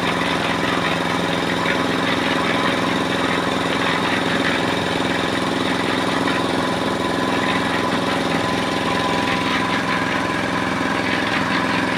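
Small engine running steadily at a constant speed, with a dense rattle over it.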